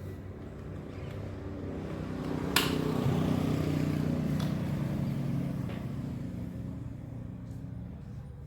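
A motor vehicle engine running with a steady low hum. A sharp click comes about two and a half seconds in, then the engine swells louder for a couple of seconds and eases back.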